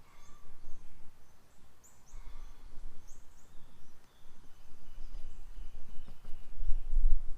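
Songbirds calling in short, high, falling chirps, with a few longer whistled notes in the middle, over a low rumble that grows louder near the end.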